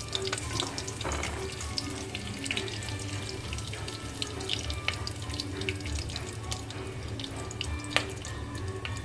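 Cinnamon and other whole spices frying in hot canola oil in a pot: a steady hiss with many scattered sharp pops as the oil splutters around them.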